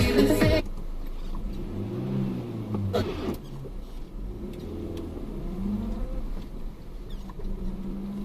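Car engine running with road noise, its note rising and falling gently, with a single sharp click about three seconds in. Music cuts off about half a second in.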